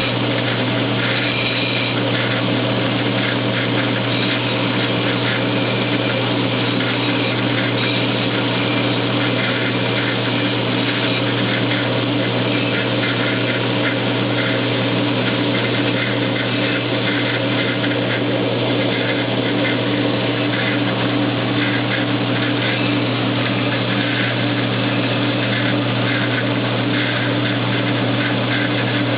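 KMG belt grinder running steadily, its motor humming, while the steel edge of a throwing knife is held against the moving belt. The grinding noise flickers unevenly as the blade is worked across the belt.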